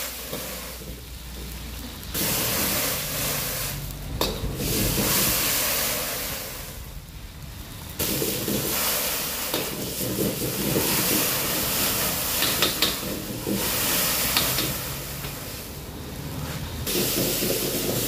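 Dried red chillies frying in hot oil in a steel wok, a hissing sizzle that swells and dies back several times. A metal ladle stirring them clinks and scrapes against the wok now and then.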